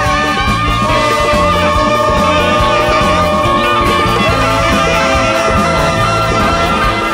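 Large free-jazz-based big band playing live: long held melodic notes over bass and a steady, repeating drum pattern.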